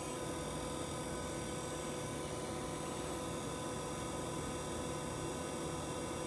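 A steady hum with a few constant pitches over a low rush, unchanging throughout.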